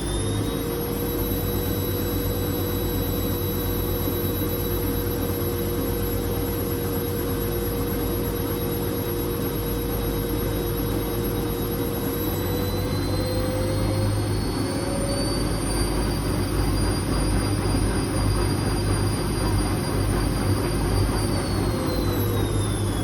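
Whirlpool Indiana 1400 washing machine spinning: a motor whine over a steady drum rumble. The whine climbs a step about halfway through and falls away near the end as the spin slows.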